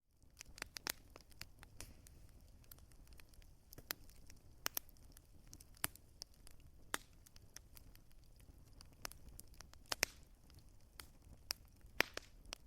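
Wood fire crackling: irregular sharp pops and snaps, a few louder than the rest, over a soft low hiss.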